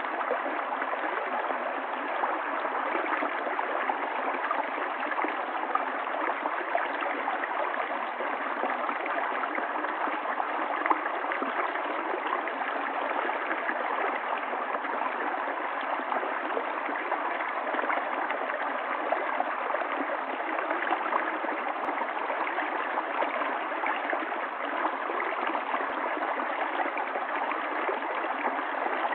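Running water of a stream flowing steadily, an even unbroken rush with no pauses or changes.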